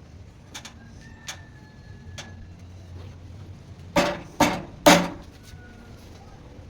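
A few faint clicks, then three loud knocks in quick succession a little past the middle, over a faint low hum.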